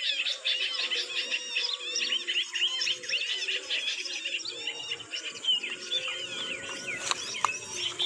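Many small birds chirping together in a dense, overlapping chatter of quick high chirps, with a single click about seven seconds in.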